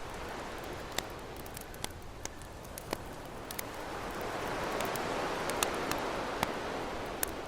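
Campfire crackling with scattered sharp pops, over ocean surf: a wave swells up from about halfway through, peaks, and washes back down near the end.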